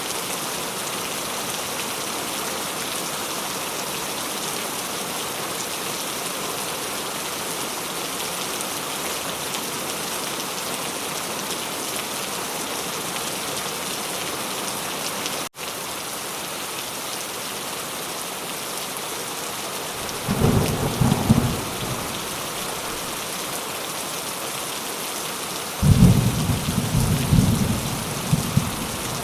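Steady, heavy rain, with two low rolls of thunder in the second half, the second longer. There is a split-second dropout in the rain about halfway through.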